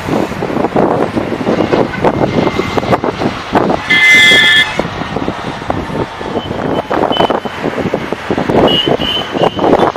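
Road traffic running steadily, with a vehicle horn honking once, loudly and briefly, about four seconds in, and fainter short honks later on.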